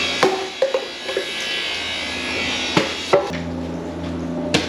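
A few sharp, separate knocks over a steady low hum.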